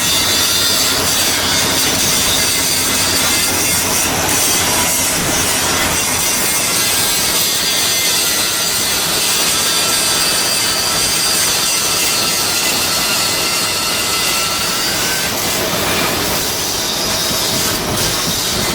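Steady, loud power-tool noise from shipbuilding metalwork, with a high whine that wavers in pitch.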